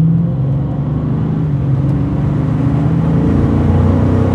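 Dodge Charger's Hemi V8 on its stock, unmodified exhaust, heard from inside the cabin while driving. The engine note eases off just after the start, then runs steady and fairly quiet at low revs, with road noise underneath.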